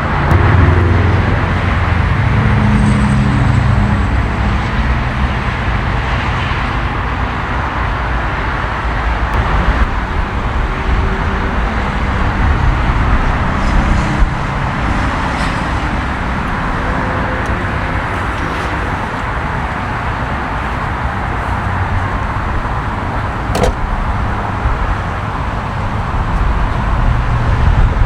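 Aston Martin DBX S's 4.0-litre twin-turbo V8 running with a steady deep rumble, a little louder in the first few seconds, with a single sharp click about 23 seconds in.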